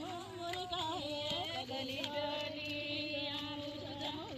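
Background music: a woman singing a slow melody in long held notes with ornamented, bending turns.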